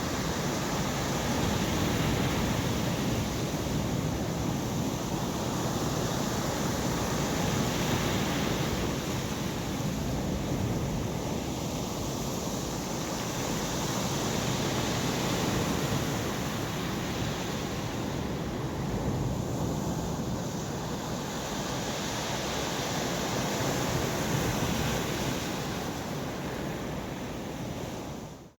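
Sea waves breaking on the shore, swelling and easing every several seconds, with wind on the microphone. The sound drops away suddenly at the very end.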